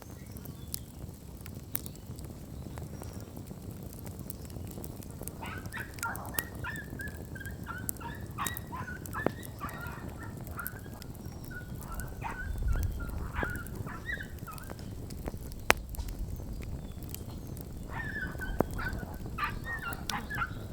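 Bonfire burning with scattered sharp crackles and pops over a low rumble. A wavering, chattering high-pitched call comes and goes, in one long spell through the middle and again near the end.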